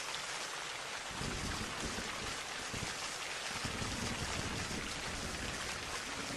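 Steady rain falling as a recorded sound effect, an even hiss, with a low rumble coming in underneath about a second in.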